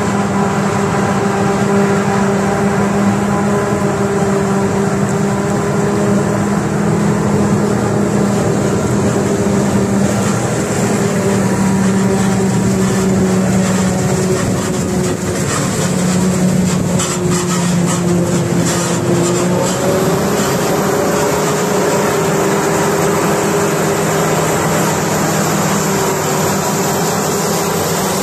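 Heavy diesel farm machinery working at a silage harvest, running steadily at high revs. The engine note dips briefly a little past halfway, with some crackling at the same time.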